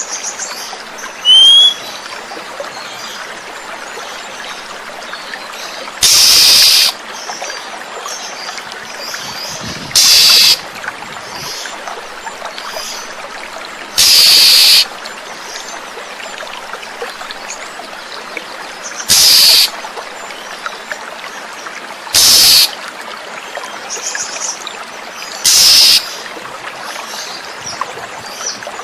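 Oriental magpie-robin (kacer) lure recording: loud, harsh, rasping bird calls, seven of them, each about half a second to a second long and a few seconds apart, over the steady trickle of running water, with faint chirps in between.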